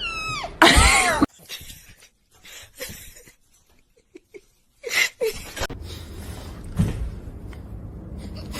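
A cat meows once, a loud call that rises and falls in pitch about a second in, followed by quieter, scattered household sounds.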